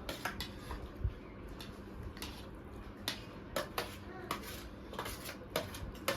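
Cutlery clinking and tapping against plates while eating, a dozen or so short irregular clinks.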